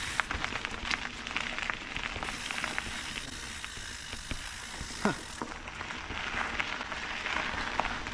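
Surly Krampus mountain bike's tyres rolling over a rough dirt and gravel trail: a steady crackling crunch dense with small clicks and ticks, with a brief falling squeak about five seconds in.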